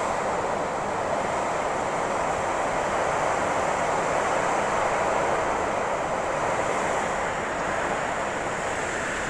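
Heavy rain and strong wind of a storm, a steady unbroken rush of noise.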